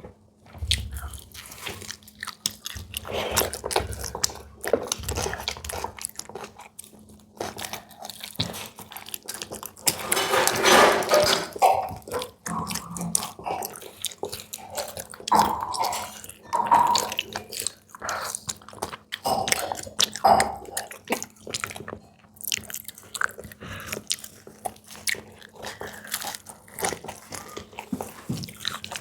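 Close-miked eating: biting, crunching and chewing of food, with many short crisp clicks and wet mouth sounds. The sound is loudest and densest about ten seconds in.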